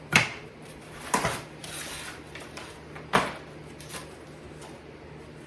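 Handling noises from unpacking a boxed workbench: three sharp knocks, just after the start, about a second in and about three seconds in, with faint rustling between.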